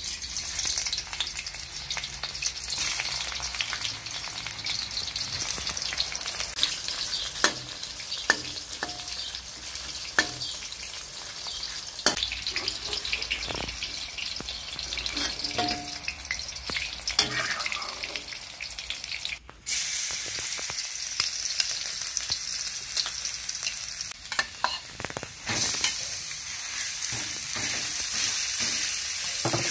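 Hot oil sizzling in an aluminium wok as long eggplant pieces fry, with the clinks and scrapes of a metal ladle stirring against the wok. Near the end minced pork and garlic are frying and the sizzle is louder.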